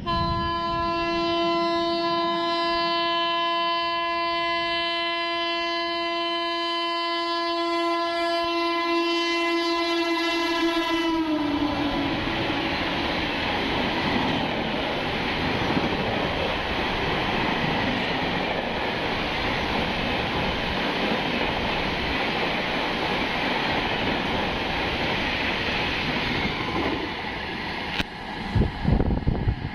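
A passenger train running through a station at speed. The locomotive's horn sounds one long, held blast for about eleven seconds and drops in pitch as the locomotive passes. Then the steady rush and clatter of the coaches going by follows for about sixteen seconds. Near the end it changes abruptly to gusty, buffeting noise.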